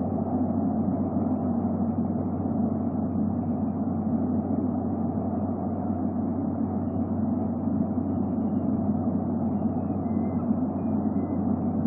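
Steady low rumbling background noise with a constant low hum, picked up by an outdoor nest camera's microphone.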